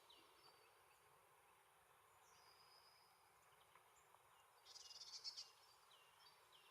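Faint calls of small songbirds: a thin high whistle about two seconds in, a brief burst of high chatter about five seconds in (the loudest sound), and a quick series of short hooked notes near the end.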